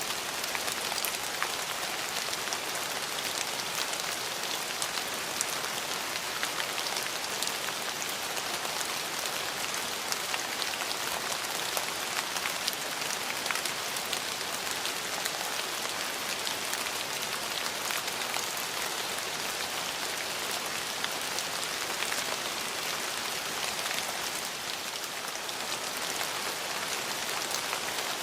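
Steady rain falling, an even hiss with many small drop ticks spattering on hard surfaces.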